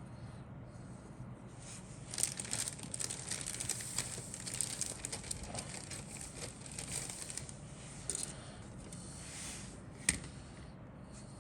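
Plastic wrapping crinkling and rustling as model kit parts are handled, starting about two seconds in, with one sharp click near the end.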